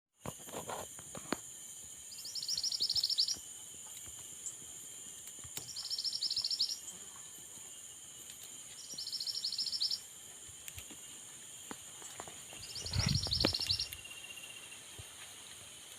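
A bird repeating a loud, rapid, high-pitched trill about a second long, four times, every three to four seconds, over a steady high drone of insects. A low thud comes about thirteen seconds in.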